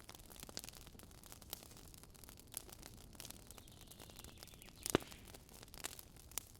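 Wood campfire crackling, a steady scatter of small sharp pops, with a brief thin hiss just past the middle and one loud pop about five seconds in.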